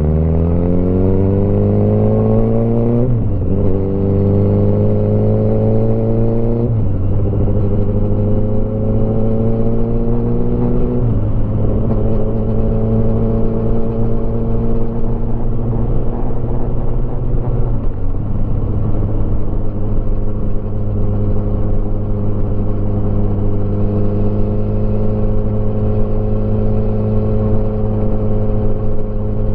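Motorcycle engine accelerating up through the gears: its pitch climbs, then drops at each of four upshifts, before it settles into a steady cruising note.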